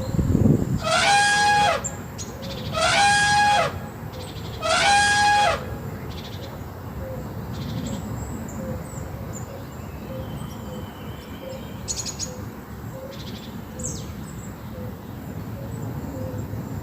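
An animal calls three times, each call loud, pitched and about a second long, about two seconds apart. After the calls comes a quieter outdoor background with a few faint ticks.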